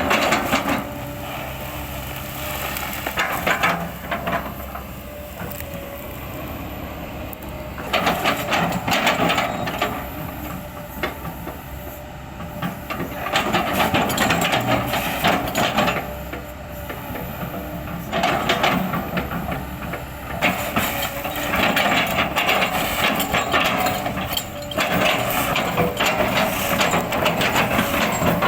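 Kobelco excavator running steadily while its bucket crushes and chips oil palm trunk wood, in several bouts of cracking and crunching a few seconds long.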